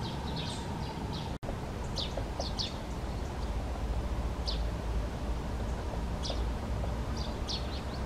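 Short, high bird calls scattered through, several a second at times, over a steady low outdoor rumble. The sound cuts out for an instant just under a second and a half in.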